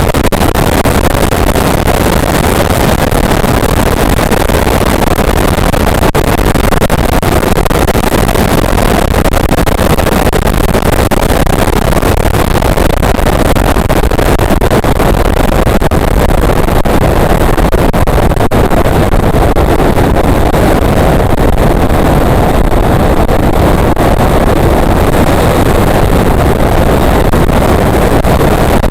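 Motorcycle ridden at speed: steady, loud engine and road noise with wind rushing over the microphone.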